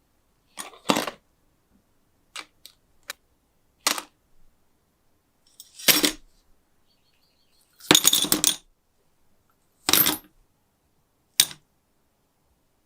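Small metal lighter parts clinking and clattering against a hard surface as they are handled, about nine separate sharp clinks at uneven intervals, the longest rattle a little past the middle.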